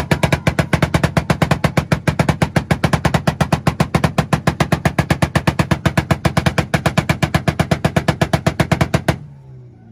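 Honda Accord's engine held on a two-step launch-control rev limiter, banging out a rapid, even string of exhaust pops, several a second, for about nine seconds, then cutting off suddenly.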